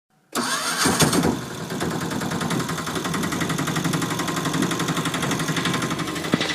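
An engine running with a fast, even chugging that starts abruptly a moment in, a little louder during the first second and then steady.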